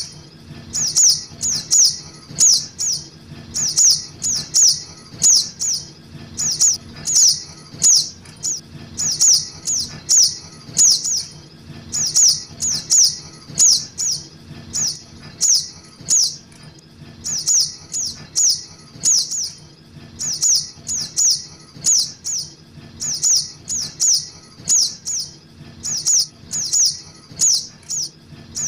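Juvenile sogok ontong (little spiderhunter) calls played as a bird-lure recording: sharp, high chirps in quick clusters of three or four, repeating over and over. A faint steady low hum runs underneath.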